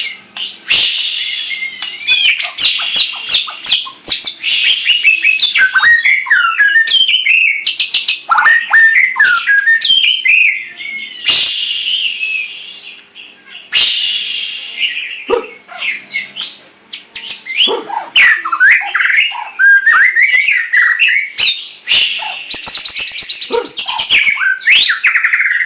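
A pet songbird singing a long, varied song of rapid chirps, trills and whistled glides, broken by a couple of short pauses.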